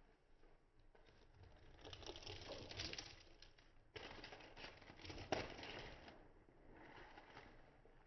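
Faint rustling and scuffling of kittens moving about, with a sharp click about five seconds in.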